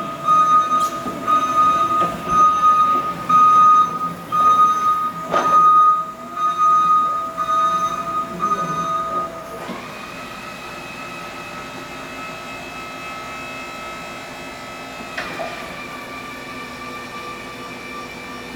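Crown electric reach truck in operation: its warning alarm beeps repeatedly, about one and a half beeps a second, over uneven machine noise, with a clank about five seconds in. About ten seconds in the beeping stops and a quieter, steady high-pitched electric motor whine takes over, which shifts in pitch about five seconds later.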